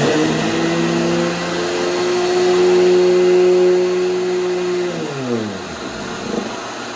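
Electric sander motor spinning up, running at a steady hum over a loud hiss, then switched off and winding down about five seconds in, with the hiss continuing after.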